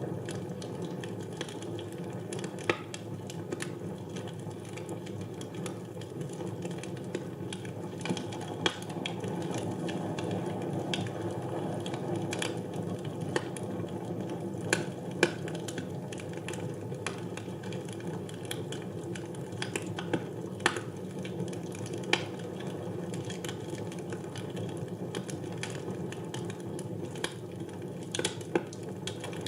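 Wood fire burning in a fireplace: a steady low rush of burning with irregular sharp crackles and pops, a few of them louder, scattered throughout.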